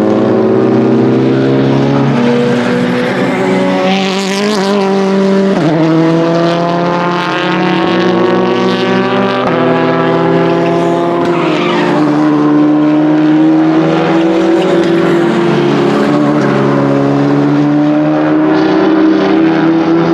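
Rally car engines running hard, their pitch climbing and dropping as the cars accelerate, change gear and brake, with a couple of short high noisy flares, about four seconds in and again around eleven seconds.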